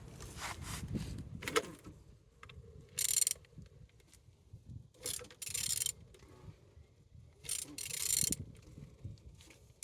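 An 11V30 engine being turned over by hand, with several short mechanical scraping strokes a second or two apart. It turns freely, showing the engine is not seized.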